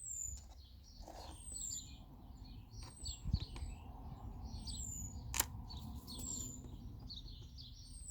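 Birds chirping, with short high whistles that slide downward repeated about once a second. A sharp click comes about five seconds in.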